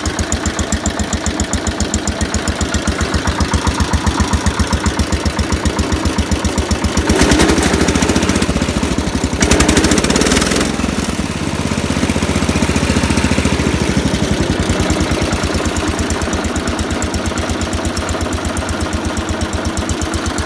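Cub Cadet 147 garden tractor's single-cylinder Kohler engine running steadily, warming up after a cold start, with an even firing beat. It gets louder for a moment about a third of the way in and again around the middle.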